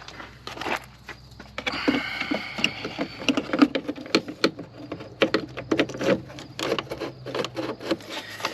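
Hands wrestling with plastic parts and the washer hose: a busy run of irregular clicks, knocks and rustling scrapes.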